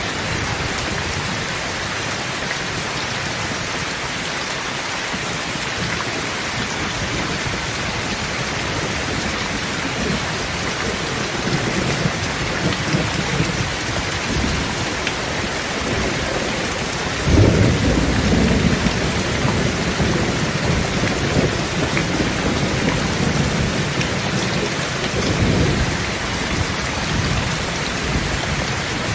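Steady heavy rain hissing, with rolling thunder: low rumbles build from about twelve seconds in, a sudden loud clap of thunder comes about seventeen seconds in and rolls on for a few seconds, and a smaller rumble follows near the end.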